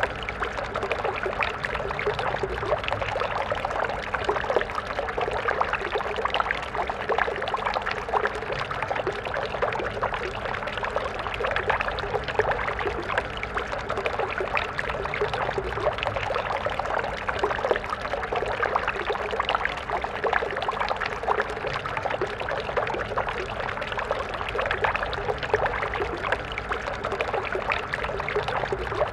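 A small stream running steadily over stones, a constant splashing and gurgling.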